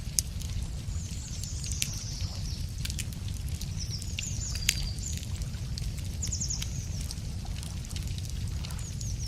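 Wood fire crackling with scattered sharp pops, while small songbirds sing high, rapid trills several times over it. A steady low rumble runs underneath.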